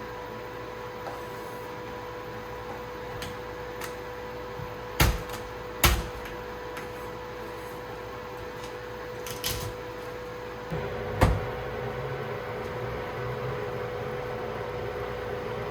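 Household handling sounds over a steady electrical hum: a few sharp knocks and clunks, the loudest two about five and six seconds in and another about eleven seconds in, where a lower hum also comes on.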